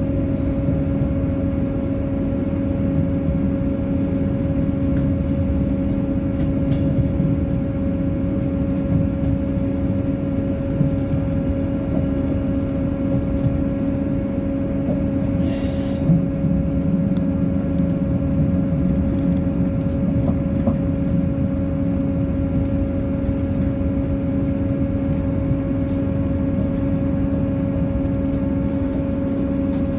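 Train running at steady speed: a constant drone with a steady hum over wheel rumble, and a brief hiss about halfway through.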